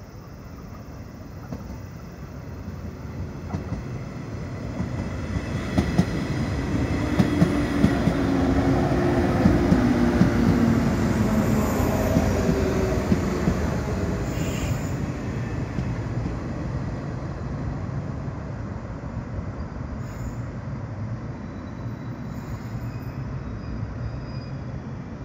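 115 series electric train pulling into a station and braking. The rumble of its wheels grows as it draws level, with a few sharp rail-joint clicks, then a whine that falls in pitch as it slows. There are two brief high brake squeals.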